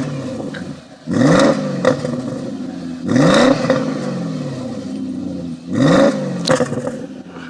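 BMW E39 535i's 3.5-litre V8 revved in three quick throttle blips, each rising sharply and dropping back to idle.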